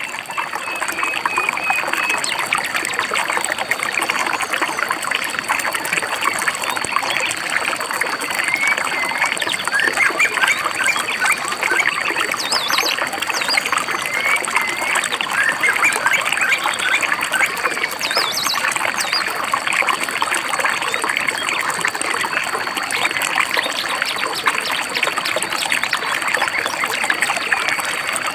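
A babbling stream trickling and splashing steadily, with birds chirping now and then over it and a thin steady high tone running underneath.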